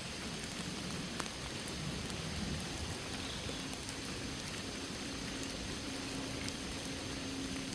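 Steady rain falling, with single drops ticking sharply now and then. A faint steady low hum comes in about three seconds in.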